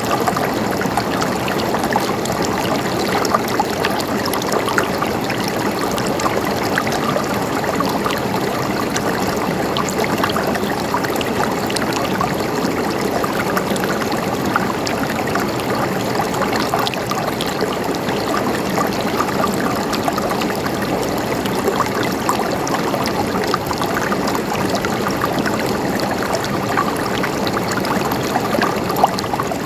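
Mountain stream flowing steadily over rocks, a continuous babbling and trickling of water.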